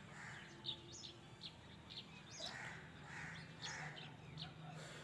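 Birds chirping: a string of short, sharp, high chirps repeating every half second or so, with softer calls among them, heard faintly over a low steady hum.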